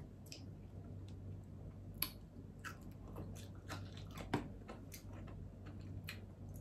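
Chewing and biting of steamed okra: scattered soft, wet mouth clicks, with sharper clicks about two seconds in and just after four seconds, over a steady low hum.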